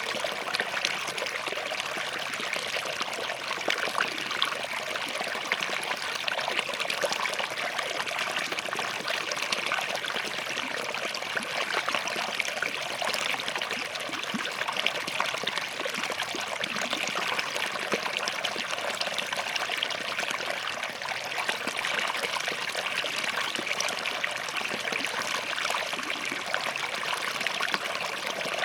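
Small forest stream flowing and trickling over rocks, a steady bright babble of running water.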